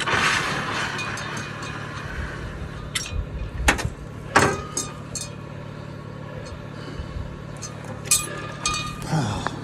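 A short hiss, then a few separate sharp clinks and knocks over a steady low hum.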